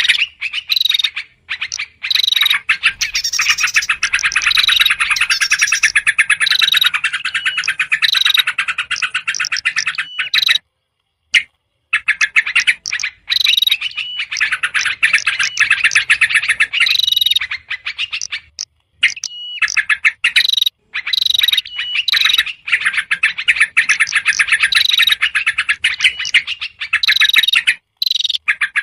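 Bird-lure recording of small songbirds chattering noisily, built on yellow-vented bulbul (trucukan) calls. Fast dense twittering runs with short clear whistle notes, breaking off briefly twice.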